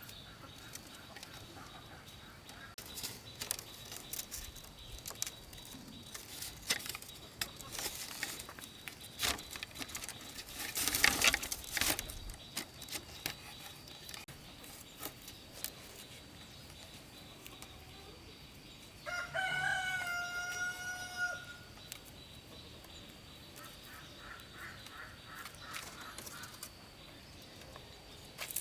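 A rooster crows once, a single drawn-out call about two-thirds of the way through. Before it comes a run of scattered clicks and knocks, the loudest a dense rustling burst of about a second and a half, a little over a third of the way in.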